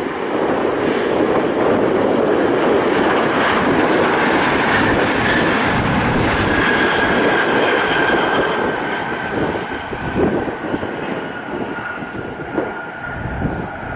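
Boeing 777X airliner's GE9X turbofan engines as the jet passes on landing: a loud, dense roar with a thin whine that falls slightly in pitch in the second half, the roar easing toward the end.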